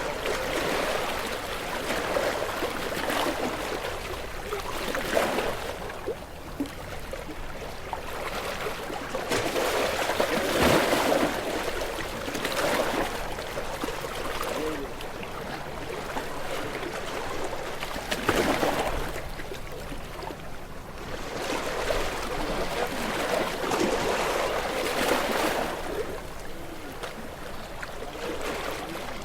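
Gentle sea waves washing up on a shore, each surge swelling and then draining back, at irregular intervals of a few seconds.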